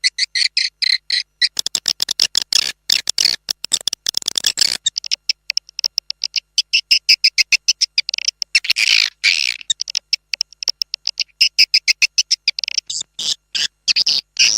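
Recorded swiftlet calls played as an external lure sound for swiftlet farming: a dense run of rapid, high-pitched chirping twitters in quick pulses.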